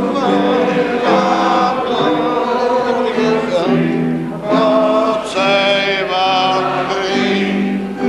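Music: a group of voices singing long held notes together.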